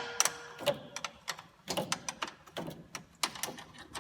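Irregular metal clicks and taps of a combination wrench working a lower condenser-mounting bolt loose on a Dodge Ram's radiator support, several clicks a second.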